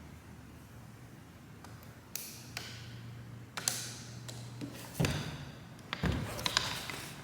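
Metal engine parts and tools handled on a workbench: a series of separate knocks, taps and clicks, the loudest about five and six seconds in, with a brief low hum in the middle.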